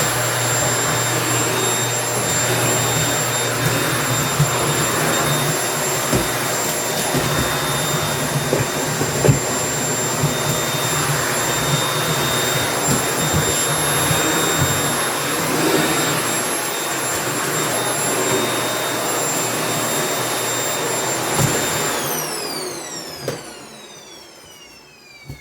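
Household vacuum cleaner running steadily with a high motor whine, the nozzle knocking lightly on the floor now and then. About 22 seconds in it is switched off and the whine falls in pitch as the motor spins down.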